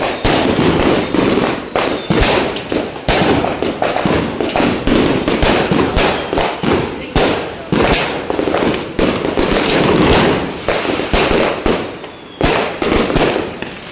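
Fireworks going off in a dense barrage: rapid loud bangs overlapping with crackling, with a short lull about twelve seconds in.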